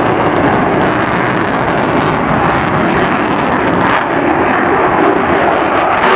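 Fixed-wing aircraft engine noise, loud and steady, with the low rumble dropping away suddenly at the end.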